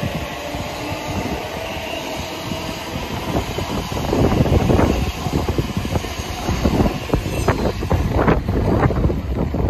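Electric train moving through the station. A steady whine gives way, about four seconds in, to louder, uneven rumbling and clattering.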